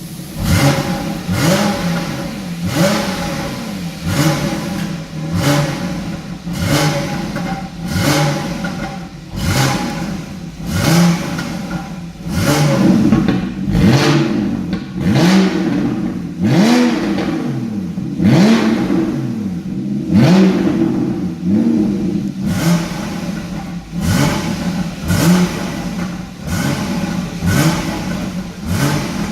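Porsche Boxster S 981's 3.4-litre flat-six revving through a custom valved exhaust in repeated quick throttle blips, about one every second or so, each rising and dropping back.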